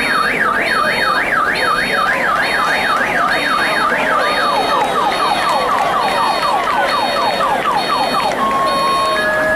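Electronic siren cycling through its tones: a fast up-and-down yelp at about three sweeps a second, which switches about four seconds in to a quicker, lower rising sweep, and then near the end to an alternating two-tone hi-lo. A high electronic beep repeats about twice a second throughout.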